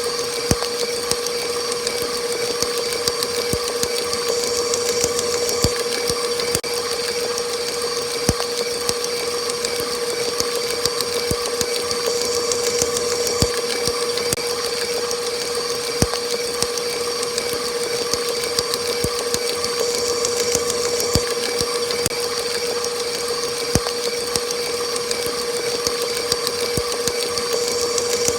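Electric kitchen mixer running steadily at high speed: a constant motor whine with a few scattered faint clicks.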